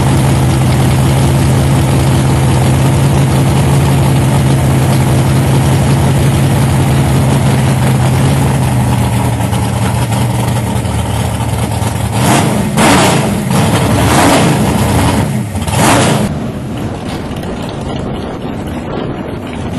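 Drag racing car engine idling loudly at a steady low pitch, then a few sharp, loud revs about twelve to sixteen seconds in, after which the sound drops to a lower rumble with wind on the microphone.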